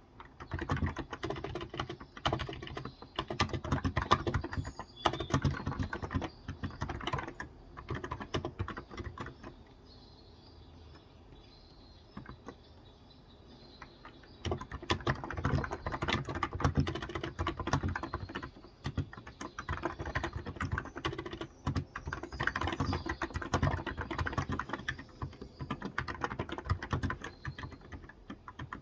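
Typing on a Cox Endeavour electro-capacitive (Topre-style) tenkeyless keyboard with light 35 g switches: dense runs of keystrokes, broken by a pause of about four seconds in the middle. Faint birds chirp in the background.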